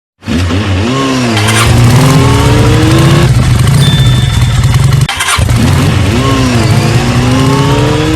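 Motorcycle engine revving and accelerating, its pitch climbing steadily. The same few-second sound plays twice, with a brief break about five seconds in.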